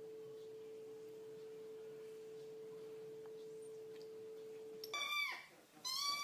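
A steady, single-pitched pure tone lasts about five seconds and stops; a cat then meows twice, the first meow falling in pitch, the second rising and falling.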